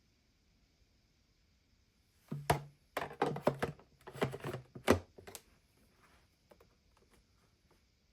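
Handling noise: a quick run of about a dozen sharp clicks and knocks over some three seconds, starting about two seconds in, with a low hum under several of them.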